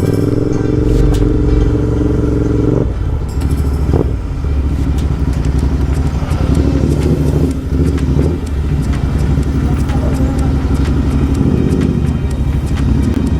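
Royal Enfield Continental GT 650's 648 cc parallel-twin engine, breathing through a Gursewak aftermarket exhaust, running steadily. About three seconds in it eases off, gives a short blip of revs about a second later, then runs on at low revs.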